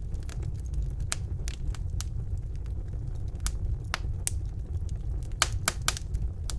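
Wood fire burning in a fireplace: a steady low rumble of the flames with scattered sharp crackles and pops, several coming in quick succession about five and a half seconds in.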